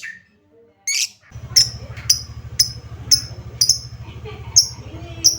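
Lovebird giving sharp, shrill chirps about twice a second, with a steady low hum underneath from about a second in.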